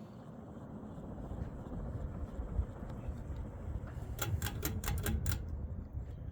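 Emerson Summer Night 52-inch ceiling fan running on high speed, a steady low hum and air rush. A quick run of sharp clicks comes about four seconds in.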